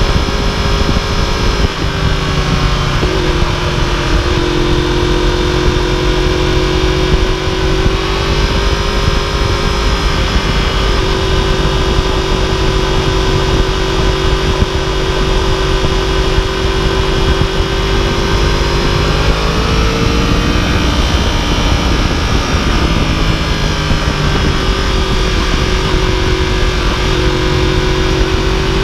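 2015 Yamaha YZF-R1's crossplane inline-four engine running at a steady cruise under way, over a steady rush of noise. The engine pitch holds mostly level, with a small drop a couple of seconds in and a brief rise about two-thirds of the way through.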